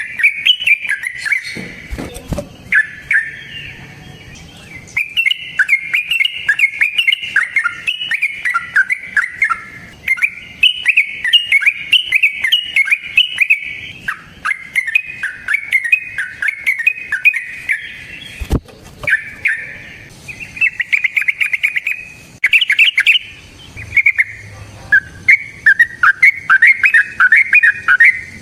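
Yellow-vented bulbul (trucukan) singing long, rapid runs of warbling phrases, nearly without pause, with a couple of sharp knocks.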